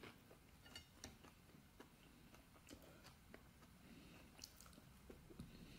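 Very faint chewing of battered skin-on chips, with a few soft clicks scattered through.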